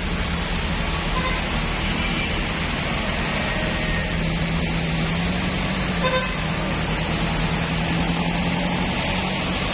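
Vehicle engines running in slow road traffic, a steady low rumble and hum, with a short horn beep about six seconds in.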